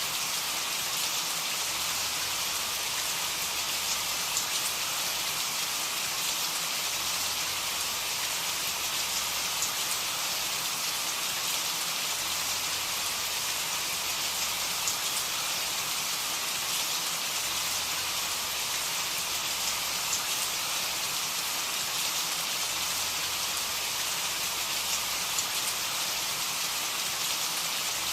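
Steady rain falling, an even hiss with faint individual drop ticks on a surface.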